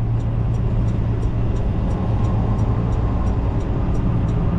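Steady road and engine drone inside a moving semi-truck's cab, with a strong low hum. Faint, regular ticking, about three a second, runs over it.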